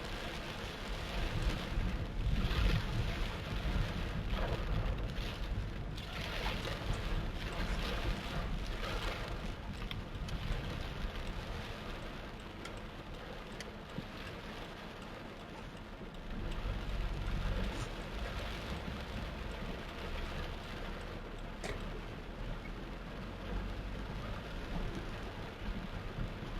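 Torrential rain falling heavily and steadily, with a low rumble underneath that swells and eases.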